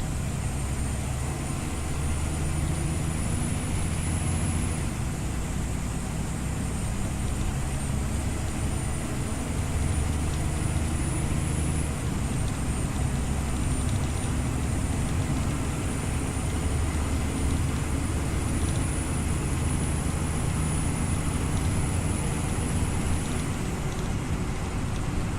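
Scania OmniLink city bus running on the road, its engine rumbling steadily with the note shifting several times. A faint high whine climbs slowly and drops abruptly three times.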